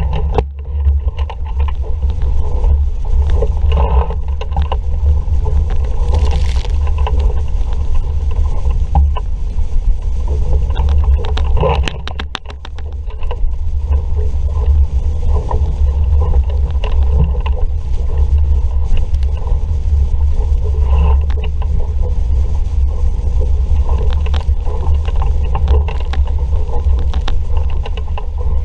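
Wind buffeting the microphone as a steady loud rumble, over water rushing past the hull of an RS Vareo sailing dinghy under sail in a breeze, with scattered knocks and clicks from the boat.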